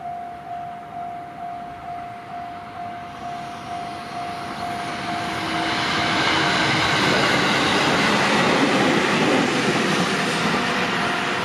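Japanese level-crossing warning bell ringing in a steady rhythm while a JR Tokaido Line train approaches and passes. The rumble and wheel noise build from about four seconds in and drown out the bell, which comes back faintly near the end.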